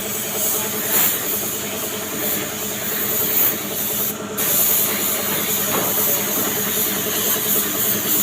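Sandpaper rubbing down a truck's body panel: steady scraping, with a short break about four seconds in.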